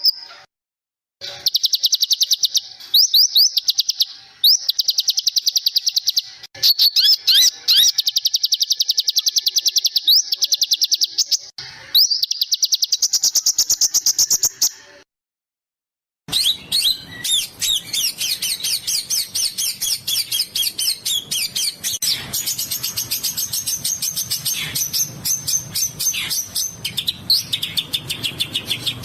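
Songbird recordings spliced together as a masteran tutoring track: long runs of very fast, sharp, repeated chirps, high-pitched and rattling. The runs break off twice into dead silence where clips join, and after the second break a denser, more varied chirping plays over a faint low background noise.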